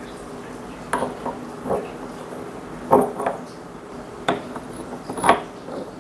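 Hard stones knocking and clacking together as rock pieces are set in place, about seven short sharp knocks spread unevenly, with a low steady hum underneath.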